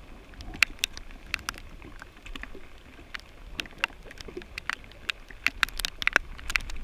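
Raindrops striking the camera, a scatter of sharp, irregular ticks, over a steady low rumble of wind on the microphone.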